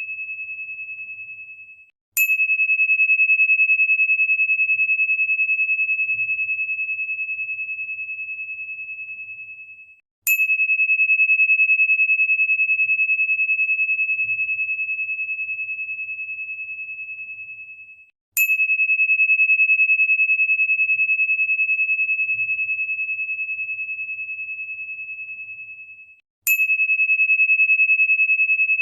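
A single high, pure ringing tone, struck four times about eight seconds apart. Each strike opens with a faint click, then the tone fades slowly and is cut off just before the next strike.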